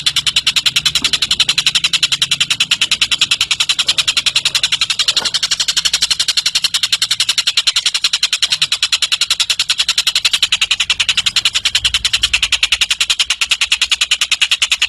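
Tengek (cililin) songbird calling in a fast, unbroken run of sharp high notes, about ten a second, kept up without a pause.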